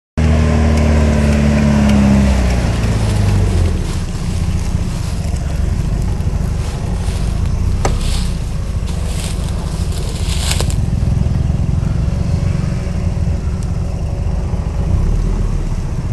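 Off-road vehicle engine driving on a rough track: its pitch drops over the first few seconds, then it runs with a steady low rumble. Brief crunching and scraping sounds come around eight and ten seconds in.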